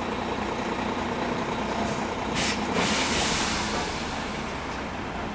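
Heavy diesel vehicle engine running steadily, with a short sharp hiss of air about two and a half seconds in and a louder rush of noise just after it.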